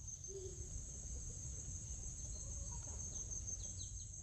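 Faint outdoor ambience dominated by insects chirring in a steady, high-pitched drone over a low rumble. A few faint short chirps come near the end.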